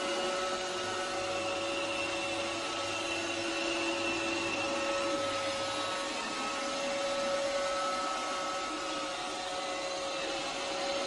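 A steady motor sound, a held whine over an even hiss, unchanging throughout.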